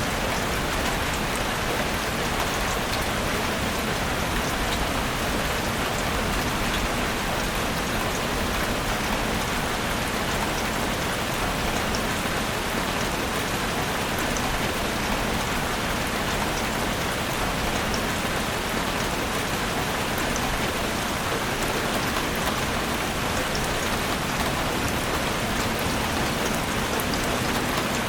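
Steady rain falling, a dense even patter with scattered individual drops ticking through it.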